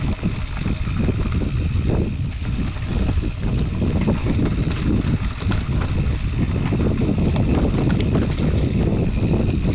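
Wind buffeting the action camera's microphone while riding a mountain bike on a dirt trail, mixed with the tyres rumbling and the bike rattling over the rough ground.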